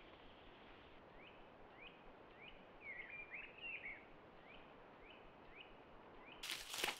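A small bird repeats short, rising chirps about once every half second to second over a faint background hush, with a quick cluster of calls midway. Near the end, footsteps start, crunching and rustling through dry fallen leaves.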